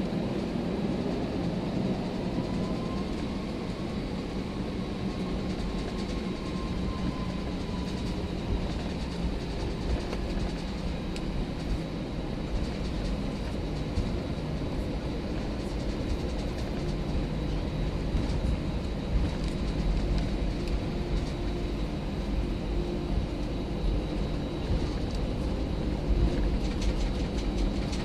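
Cabin noise inside an Airbus A319 airliner: a steady hum over a low rumble, with a faint tone that rises a few seconds in and falls away again.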